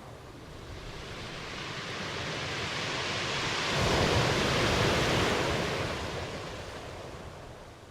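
Ocean wave washing ashore: the surf noise builds to a peak about halfway through, then fades away as the wave recedes.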